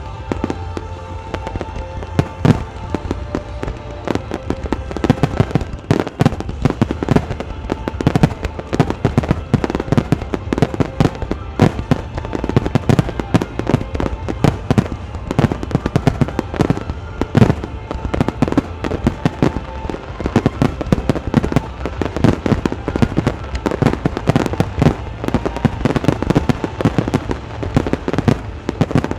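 Aerial fireworks bursting in rapid succession: a dense volley of sharp bangs and cracks that thickens a few seconds in, with music playing underneath.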